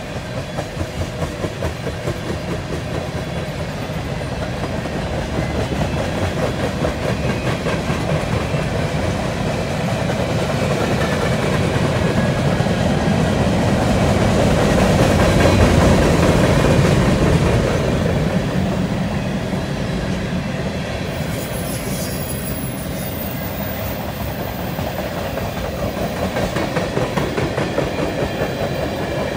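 Freight train's tank cars and covered hoppers rolling past, steel wheels clicking over the rail joints in a steady rhythmic clatter. It grows louder toward the middle and eases off again.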